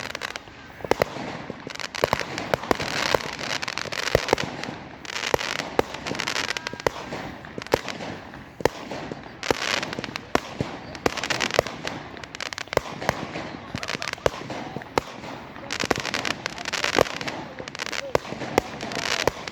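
Fireworks going off in quick succession: many sharp bangs over a continuous crackle, with repeated hissing, crackling bursts.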